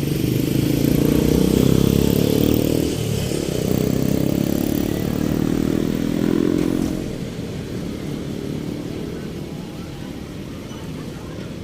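A motor vehicle engine passes close by, loud for about the first seven seconds and then fading to a steady background hum of traffic.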